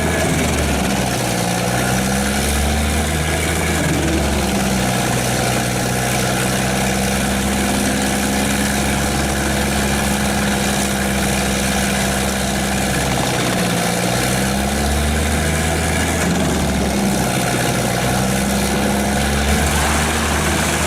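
Large tracked wood chipper running: the engine and chipping drum run loud and steady, the engine note sagging briefly and recovering several times.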